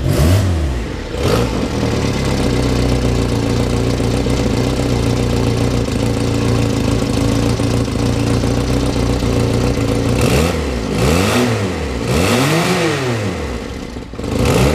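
Reliant Robin's 850 cc four-cylinder engine idling steadily just after starting, then revved up and let back down a few times about ten seconds in.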